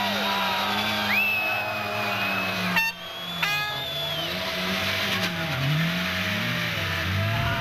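Rally car engines running hard. There is an abrupt cut about three seconds in, and after it the revs drop and climb again. A high steady tone sounds over the first part.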